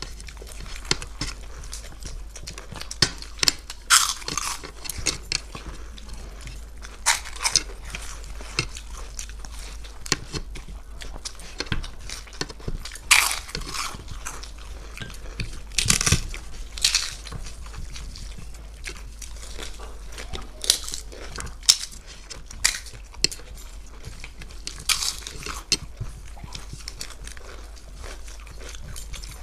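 People eating a meal of rice and curry: irregular wet chewing and smacking with occasional sharper crunches, over a steady low hum.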